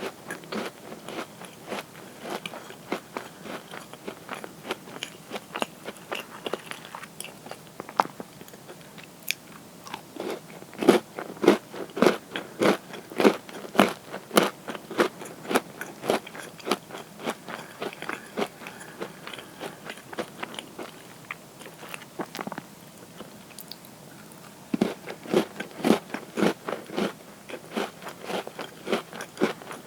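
Close-miked crunching and chewing of crisp cookies: runs of quick sharp crunches, loudest in two stretches about a third of the way in and again near the end, with softer chewing between.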